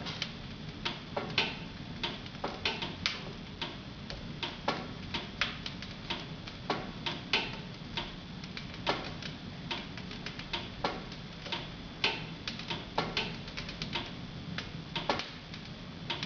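Wood fire in a home fireplace crackling, with irregular sharp pops and snaps a few times a second over a steady low background.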